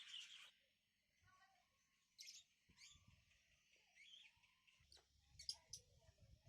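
Faint bird chirping: short, sharp high calls scattered through, with a quick cluster of them about five seconds in.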